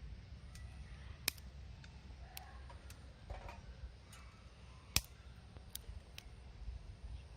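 Small wood fire crackling in a compact wood stove, with scattered light ticks and two sharp pops, one about a second in and another a little past the middle. Wind rumbles low on the microphone throughout.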